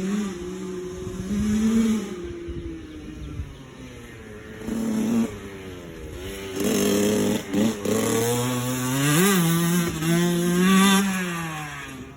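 Dirt bike engine revving up and down, its pitch repeatedly rising and falling with throttle and gear changes, getting louder in the second half.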